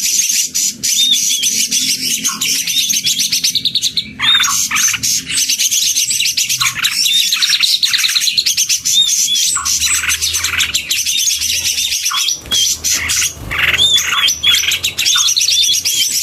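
Several green leafbirds (cucak ijo) singing at once, a dense, busy chorus of fast chirps, trills and short hooked whistles with no pause.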